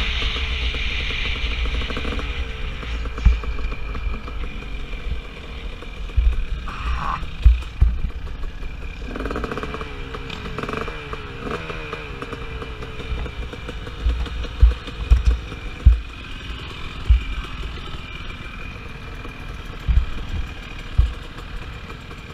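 KTM 250 SX two-stroke motocross bike's engine revving up and down with the throttle, with repeated sharp low thumps, gradually getting quieter.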